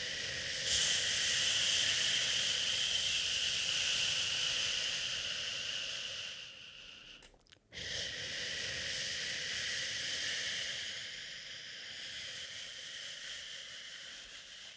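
A person shushing a soothing 'shhhh', two long drawn-out shushes split by a brief breath break about seven and a half seconds in, the second fading away near the end.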